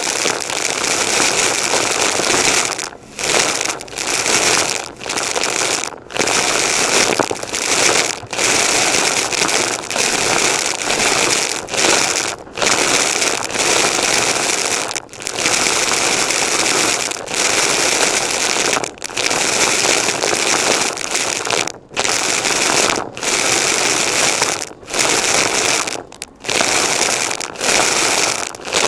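Vacuum cleaner running and sucking up debris with a dense crackling rattle. The sound briefly dips every second or two.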